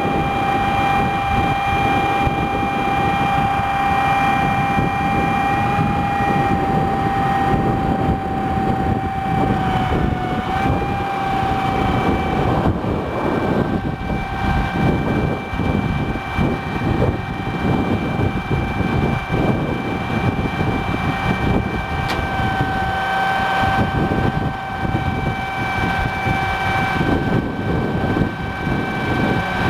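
1982 Ford flatbed crane truck running, a rough rumble with a steady high whine over it.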